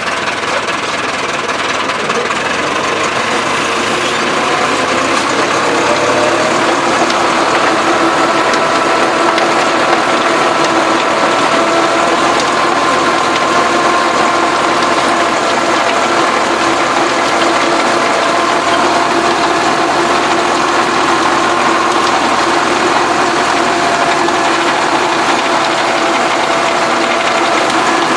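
Massey Ferguson tractor's diesel engine running steadily under load while working the soil, with mechanical rattling; its pitch rises slightly a few seconds in, then holds.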